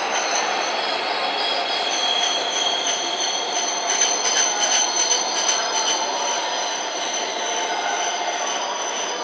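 Shinkansen train pulling out of the station and running away: continuous rolling noise with a steady high-pitched whine, and a short run of sharp clicks about four to five seconds in.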